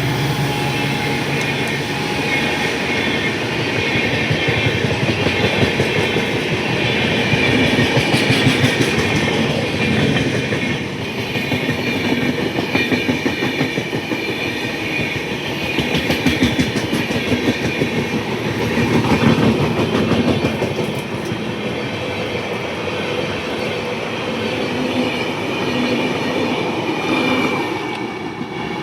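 Train rolling past, its wheels clattering rhythmically over the rail joints. The sound fades a little near the end.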